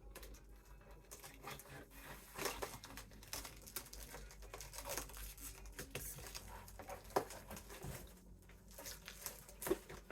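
Packing tape and poster board pieces being handled and pressed together: scattered rustling and crinkling with a few light taps, a couple of them sharper near the end.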